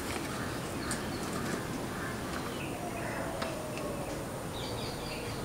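Birds calling over a steady background hiss, with a run of short repeated chirps near the end and a few faint clicks.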